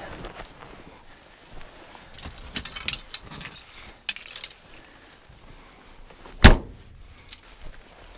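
Keys jangling and small metal rattles in a few short clusters, then a single loud thump about six and a half seconds in.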